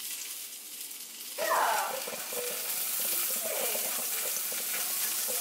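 Breakfast of pancakes and sausage frying in a pan, a steady sizzle.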